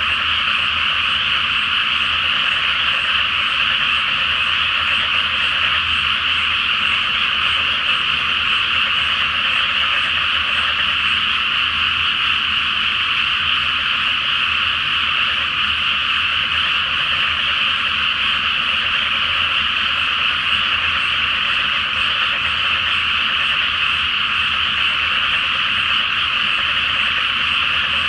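Great chorus of many frogs calling at once, a dense, steady, unbroken din with no pauses.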